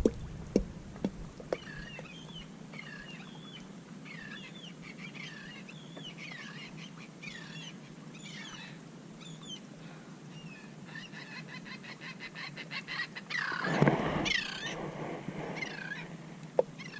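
A bird calling over and over with short, curved squawking calls less than a second apart. There is a quick rattling run in the middle and one louder call near the end.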